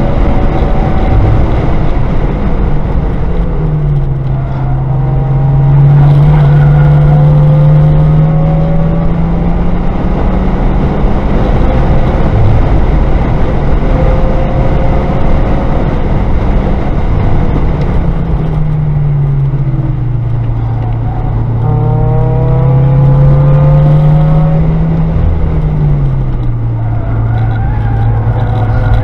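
Car engine heard from inside the cabin at track pace over steady road and wind noise. Its pitch climbs and holds, eases down, climbs again, then drops suddenly about 25 seconds in.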